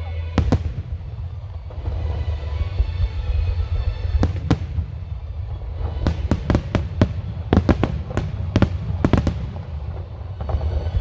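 Firework shells from a wide starmine display bursting: a single bang, then two close together, then a rapid volley of about a dozen bangs in the last third, with music playing underneath.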